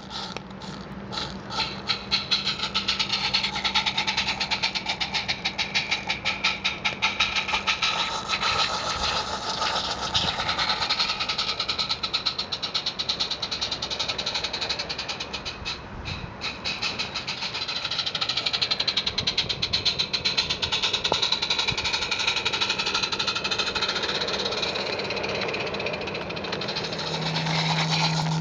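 16mm-scale model garden railway train running along its track, with a fast, continuous rhythmic clatter and wavering high-pitched tones over it.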